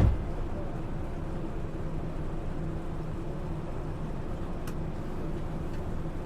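Yui Rail monorail car heard from inside the cabin: one thump at the start, typical of the doors shutting, then the car's steady low rumble with a faint hum.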